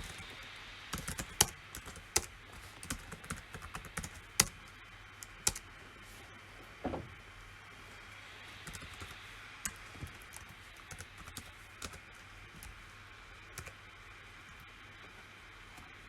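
Typing on a PC keyboard: irregular runs of key clicks, dense for the first several seconds, then a pause and a few sparser keystrokes, with a low steady hum underneath.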